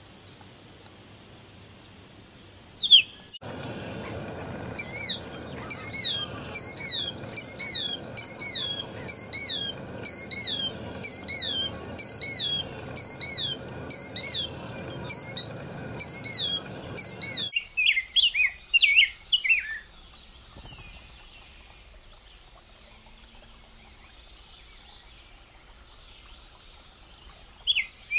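Bird calls, spliced from separate recordings: a short, high call that falls in pitch, repeated about once a second over a hissy background for around fourteen seconds. It is followed by a quick run of different calls, a quiet stretch, and more calls near the end.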